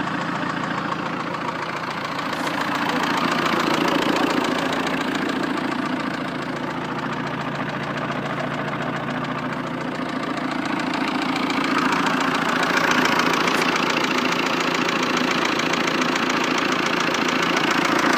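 Fiat 1.9 JTD four-cylinder common-rail turbodiesel running at idle with a distinct, regular knock. A diagnostic check judged a fuel injector an unlikely cause of the knock, which remains undiagnosed.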